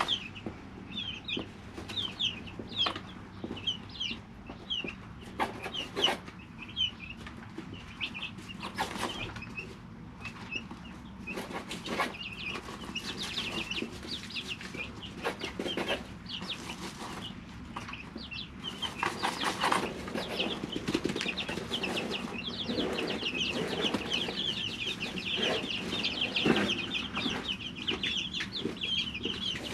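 Three-week-old chicks peeping: many short, high, slightly falling peeps, scattered at first and becoming a near-continuous chorus from about two-thirds of the way in. Short taps and rustles run among them.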